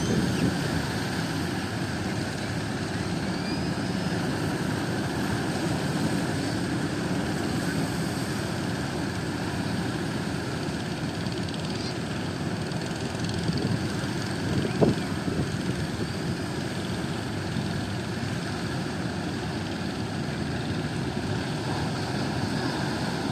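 Fishing boat engines running with a steady drone, with a brief thump about fifteen seconds in.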